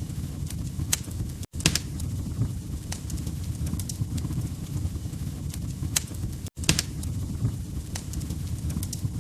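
Log fire crackling: a steady low rumble of flames with irregular sharp pops and snaps. The sound cuts out for a split second twice, about five seconds apart.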